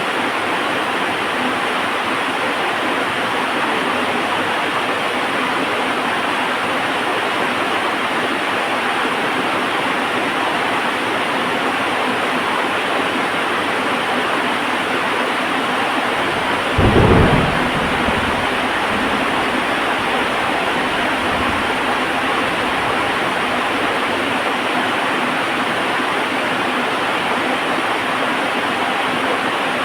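Heavy rain falling steadily, with one thunderclap a little past halfway that rumbles away over several seconds.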